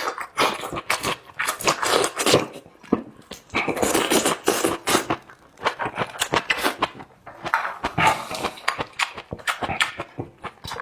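A person eating close to the microphone: irregular wet chewing and mouth noises, with many short clicks and smacks.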